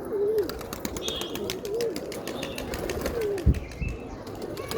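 Domestic pigeons cooing: several low, wavering coos in a row, among many sharp clicks and one louder thump about three and a half seconds in.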